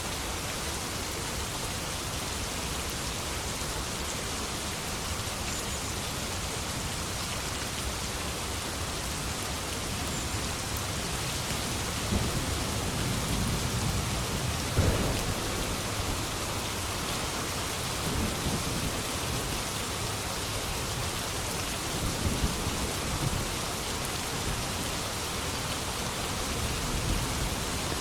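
Steady rain with thunder rumbling. A low rumble builds about halfway through to its loudest clap, and softer rumbles follow twice more later.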